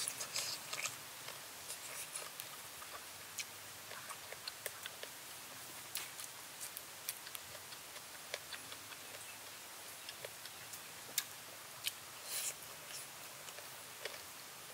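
Eating sounds of someone chewing sour pickled chicken feet: irregular small clicks, crunches and mouth smacks, thicker at the start and again near the end, over a steady faint hiss.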